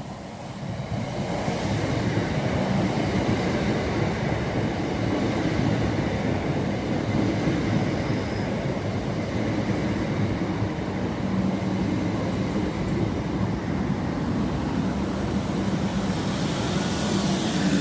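A train running through the station. Its rumble builds over the first couple of seconds and then holds steady, and a high hiss grows near the end.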